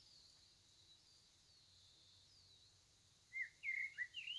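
A songbird singing faintly: a few thin high chirps, then a quick run of warbling, up-and-down phrases starting about three seconds in, over quiet room tone.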